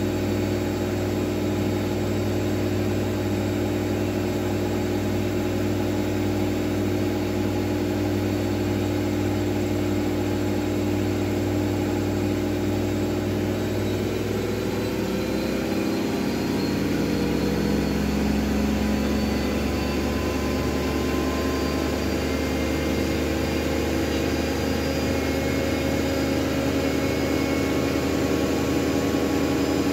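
Miele W433S washing machine running its drum motor with a steady hum; about halfway through, the motor pitch rises as the drum speeds up, then holds at the higher speed.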